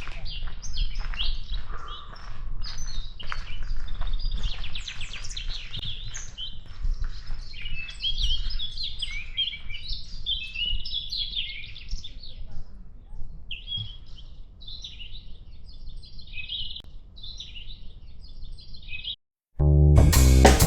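Several birds singing and chirping, a dense mix of short, warbling calls over a steady low rumble. Near the end the sound cuts out and music begins.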